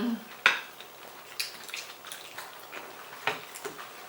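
Scattered light clicks and knocks, the loudest about half a second in, then a few more spread through the pause.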